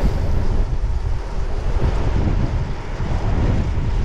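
Gusty wind buffeting the microphone of a bike-mounted action camera, a loud, continuous low rumble.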